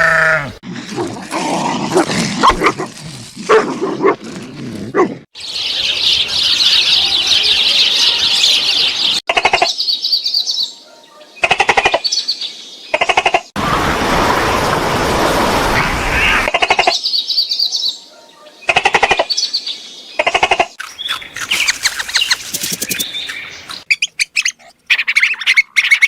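A string of short animal-sound clips cut one after another, among them birds chirping. The clips start and stop abruptly every second or few seconds.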